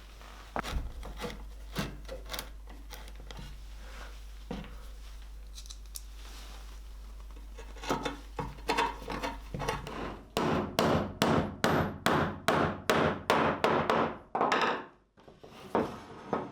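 Hand-tool work on the bread cutter's wooden and cast-iron parts during reassembly: scattered clicks and knocks of handling, then, about halfway through, a run of about a dozen rhythmic scraping strokes, two to three a second, that stops shortly before the end.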